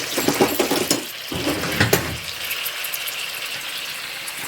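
Mussels cooking in a hot pot with onion and garlic, sizzling with a watery, bubbling hiss and scattered crackles; some clattering in the first two seconds.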